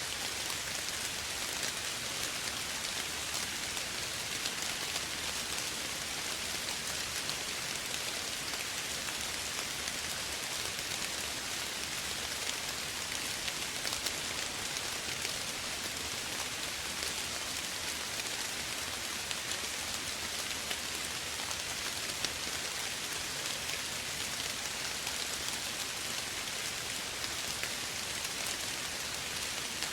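Steady soft rain falling, an even hiss with fine patter of drops.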